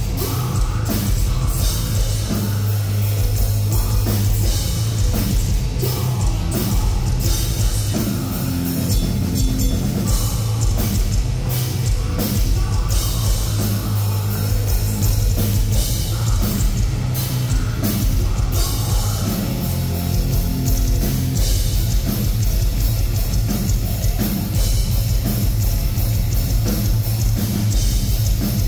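Live heavy metal band playing loud: drum kit and guitars.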